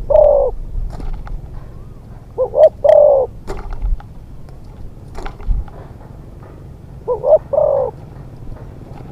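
Spotted dove cooing: three phrases, one at the start, one about two and a half seconds in and one about seven seconds in, each a couple of short notes and then a longer coo.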